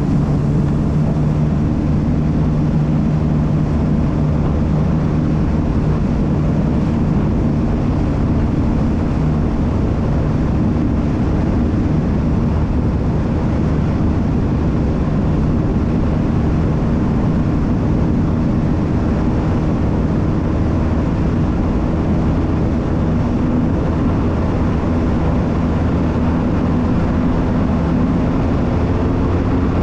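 Jet ski engine running steadily at speed, its pitch holding nearly constant with small shifts, over the rush of water and air.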